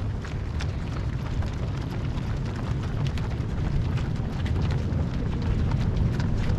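Footsteps of a dense stream of marathon runners passing, many shoes striking the road in an irregular patter over a steady low rumble.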